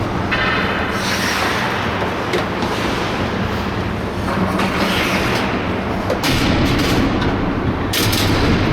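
Skate blades scraping and carving on rink ice in several short bursts over a steady low rumble of wind on the microphone.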